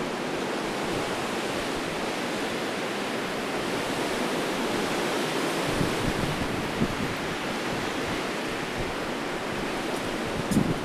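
Strong gusting wind rushing steadily, with low buffeting of the wind on the microphone in the second half, strongest near the end.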